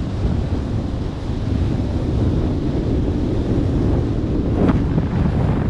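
Wind buffeting the microphone in a steady, heavy rumble, with one short sharp sound about four and a half seconds in.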